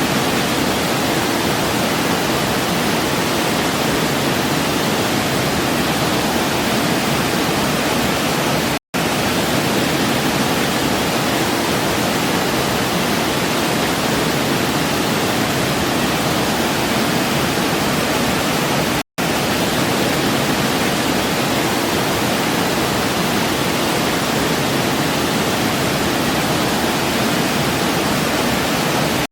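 Waterfall, a steady even rush of falling water. The sound drops out for an instant twice, about ten seconds apart.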